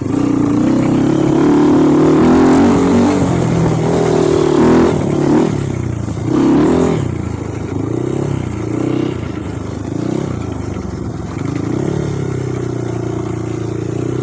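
Off-road trail motorcycle engine under changing throttle, the revs rising and falling again and again as it is ridden over rough ground.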